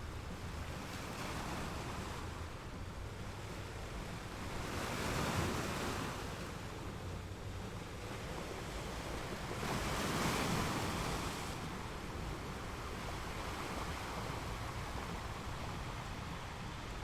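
Sea waves breaking in a steady rushing hiss, swelling twice, about five and ten seconds in, as bigger waves come in.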